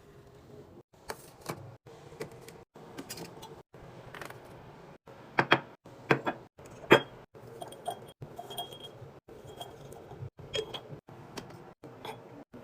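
Clinks, taps and knocks of food containers and bottles being handled and set down while a fridge is restocked, in short snippets broken by brief dead-silent gaps. The loudest knocks come around the middle.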